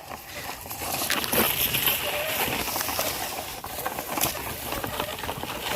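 Plastic toy dump truck pushed by hand through rice plants: a steady rustling with scattered clicks and scrapes.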